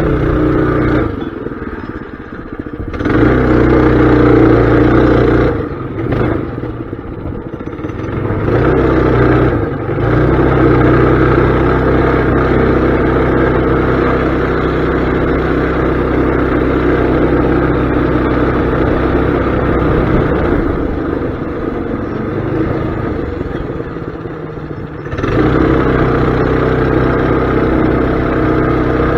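Mini bike engine running as the bike is ridden, the throttle opening and easing off: a couple of short surges early, a long steady run through the middle, a brief easing off, then opening up again near the end.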